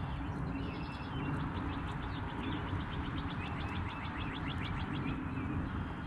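A songbird calling: a fast run of short, repeated notes lasting about four and a half seconds, starting about half a second in, over a low steady rumble.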